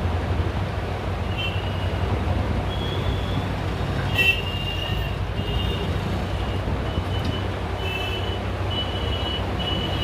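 A steady low rumble, with a run of short high-pitched squeaks or chirps that repeat irregularly after the first second or so, and one sharp click a little before the middle.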